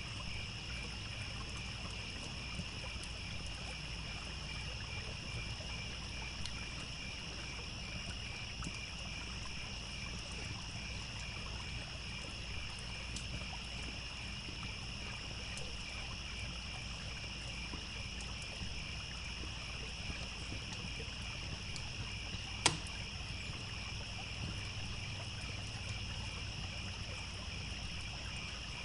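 Crickets chirping in a steady, rapid pulse over the low, even rush of a trickling stream, with small scattered crackles from a campfire and one sharp pop about three-quarters of the way through.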